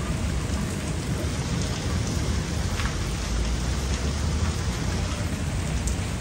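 Heavy rain falling steadily, with a low rumble of thunder in the background around the middle.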